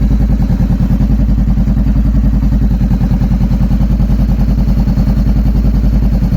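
2014 Honda CB500F's parallel-twin engine idling steadily just after a cold start, warming up. No ticking 'tec-tec' is heard; the mechanic judges the engine free of the noise it had when cold.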